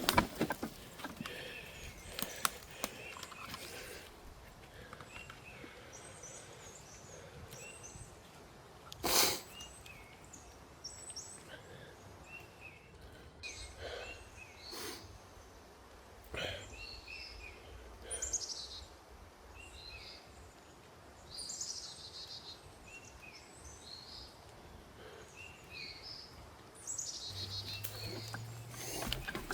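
Birds chirping in short, scattered calls, with a few sharp knocks. The loudest is a single knock about nine seconds in.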